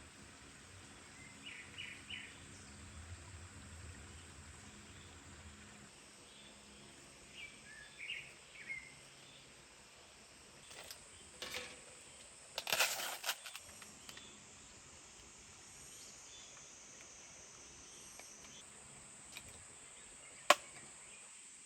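Quiet forest ambience with a few short bird chirps, a spell of rustling and handling noises about halfway through, and one sharp click near the end.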